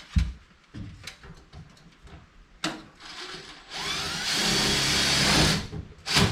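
A handheld power drill running for about two seconds in the second half, most likely driving one more screw into the ductwork. A few light knocks and a sharp clunk come before it.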